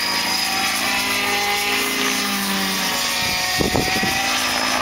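Engine-powered radio-controlled model helicopter flying: a steady engine and rotor whine that drifts a little in pitch, over a hiss of wind. About three and a half seconds in there is a brief louder low rumble.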